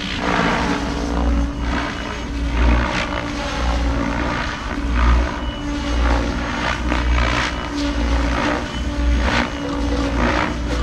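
Goosky RS7 electric RC helicopter in flight: its main rotor and motor make a steady whirring hum that swells and fades every second or so as it manoeuvres.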